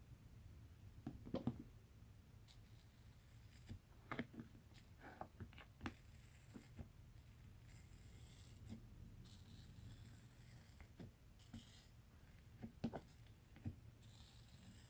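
Slime being squeezed and worked by hand: faint, scattered sticky clicks and pops, with a few short stretches of soft crackling.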